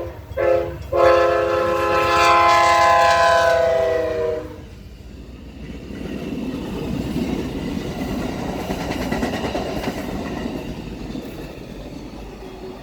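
Amtrak passenger locomotive's air horn sounding a loud chord, broken by two short gaps and then held. The chord drops slightly in pitch as the engine passes and cuts off about four seconds in. Then the passenger cars rumble past, fading toward the end.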